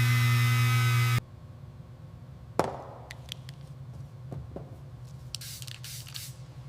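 A steady machine hum cuts off abruptly about a second in. Then comes one sharp knock, a few light clicks, and short hissing spray bursts near the end.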